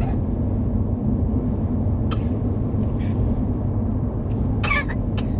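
Truck engine running steadily with a low drone, with a few brief clicks and a short rattle near the end.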